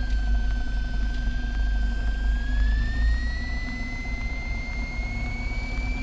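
Cessna 172's piston engine running at low power through the intercom: a steady low rumble with a thin high whine that slowly rises in pitch during the second half.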